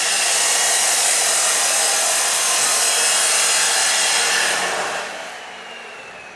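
Loud, steady hiss of a jet of compressed air, as from an air blow gun, tapering off about five seconds in.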